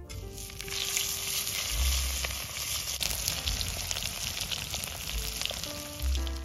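Smashed red potatoes frying in hot oil in a cast-iron Dutch oven: a dense crackling sizzle with many small pops, starting abruptly as they are lowered into the oil.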